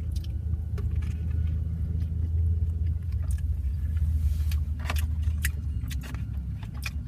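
A person chewing a chicken wrap, with scattered short clicks and rustles of handling the wrap, over a steady low rumble.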